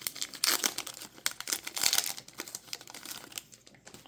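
Foil trading-card pack wrapper being torn open and crinkled in the hands, in irregular crackling bursts that die away near the end.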